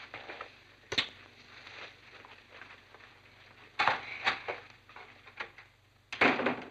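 A few scattered knocks and thuds: a single sharp knock about a second in, a quick cluster of them around the middle, and a louder, longer thud near the end.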